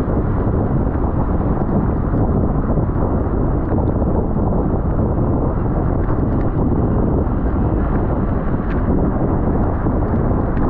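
Wind rushing over the microphone of a camera riding along in a bicycle race at speed, a loud steady rush with a few faint ticks.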